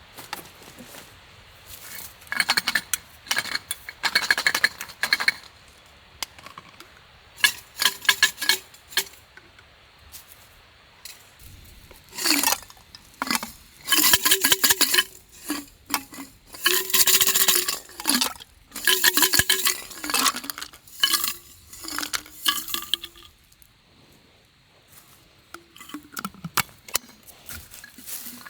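Metal camp cookware clinking and scraping: a utensil tapping and stirring in a small pot, in repeated clusters of clinks with short ringing.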